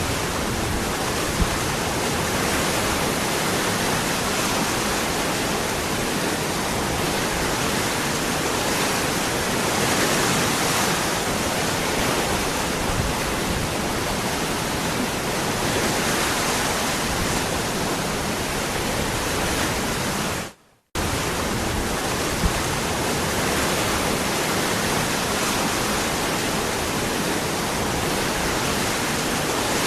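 Waterfall, a steady, even rush of falling water. It cuts out abruptly for under half a second about two-thirds of the way through, then resumes at the same level.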